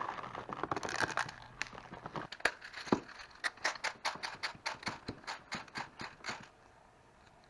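A hi-cap airsoft magazine being handled, first a jumble of rattling, then a run of sharp clicks about four a second that stops about six seconds in.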